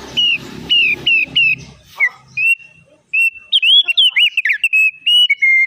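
Opior songbird singing: a row of short chirps, a brief pause about three seconds in, then a quicker run of whistled notes with swooping dips.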